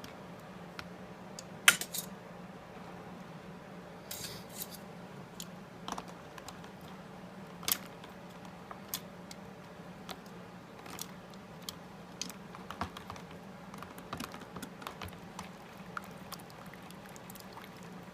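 Scattered small clicks and taps, like objects being handled, the sharpest about two seconds in, over a faint steady low hum.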